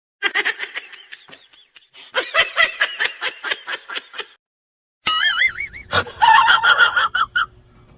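A person laughing hard in a quick run of bursts. After a short pause near the middle, more high, wavering voice sounds follow.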